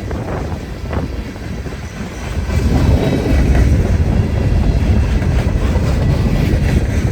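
Freight cars of a passing train rolling by, wheels rumbling and clacking on the rails, getting louder about two and a half seconds in.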